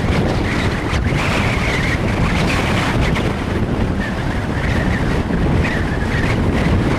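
Storm wind buffeting the microphone with a heavy, steady rumble, and a wavering high-pitched whistle that comes and goes.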